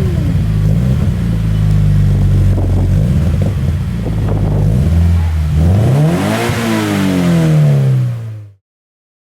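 Scion FR-S flat-four engine heard through its exhaust, idling steadily. About two thirds of the way in it is revved once, and the pitch climbs and then falls back toward idle. The sound cuts off abruptly near the end.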